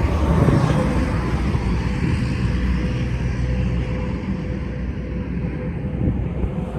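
Steady rumble of a running motor vehicle, with a faint constant hum above it.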